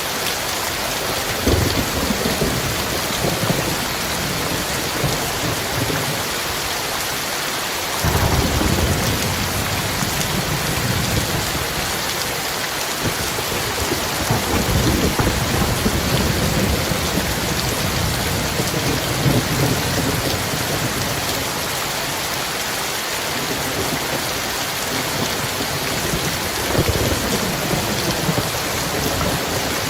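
Heavy, steady rain with rolls of thunder: a short rumble about a second and a half in, a sudden louder rumble at about eight seconds that rolls on for several seconds, another long rumble in the middle, and a shorter one near the end.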